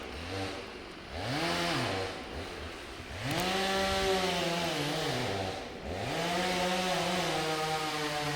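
Chainsaw engine revved three times. Each time the pitch rises, holds, then drops back toward idle, and the third rev is still held at the end.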